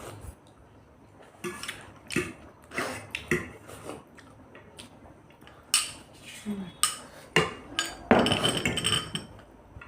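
Spoons and forks clinking and scraping against bowls and plates during a meal, in scattered short clicks, with a louder, noisier stretch of scraping about eight seconds in.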